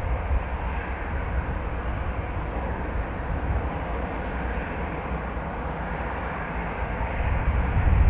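Jet airliner engine roar at an airport, with gusty wind rumbling on the microphone; the noise eases in the middle and swells again near the end.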